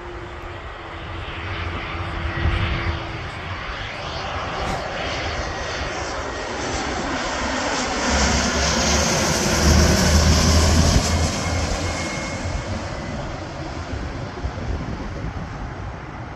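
Jet airliner-type engine noise from a jet on landing approach passing close by: the roar swells to its loudest about ten seconds in, then fades.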